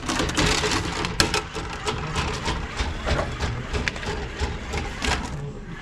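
Irregular knocks, clicks and scraping from hard parts being handled, over a low rumble, with the sharpest knock about a second in.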